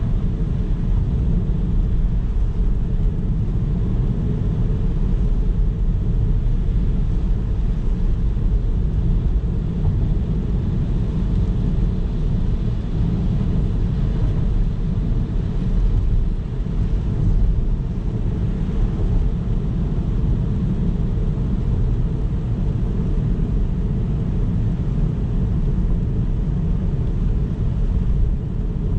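A car driving along a road, with a steady low rumble of road noise and engine.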